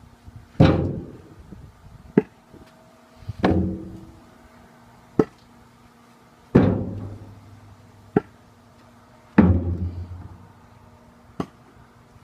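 Split firewood being stacked into a tractor's steel loader bucket: four heavy thuds about three seconds apart, each with a short ringing tail, and a sharp single knock between each pair.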